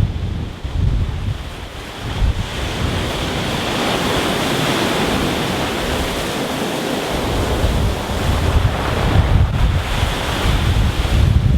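Rough sea breaking on a stony beach, a wave swelling into a long hissing wash over the stones. Wind buffets the microphone with a low rumble at the start and again in the last few seconds.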